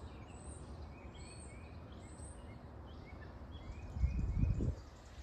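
Small birds chirping and calling in short, repeated notes over a steady low outdoor rumble. About four seconds in, a brief low buffeting sound, the loudest thing here, lasts under a second.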